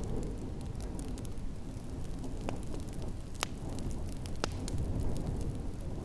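Wood fire crackling in a fireplace, scattered small ticks and three louder pops in the middle, over a steady low rumble of snowstorm wind.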